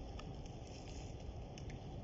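Outdoor ambience: a steady low rumble with faint, irregular light ticks scattered through it.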